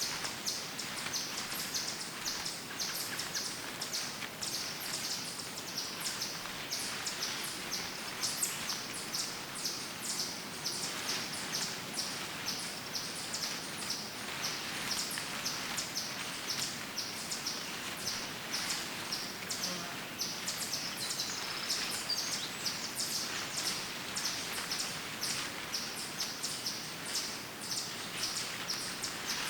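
Woodland ambience: many small birds chirping in quick, overlapping calls over a steady background hiss.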